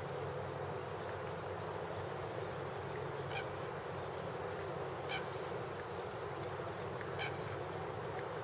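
A bird giving three short calls about two seconds apart, over steady low background noise.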